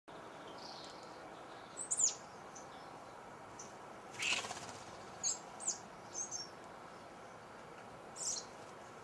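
Small garden birds giving short, high chirps, about half a dozen scattered through, with one harsher, broader call a little after four seconds, over a steady faint hiss.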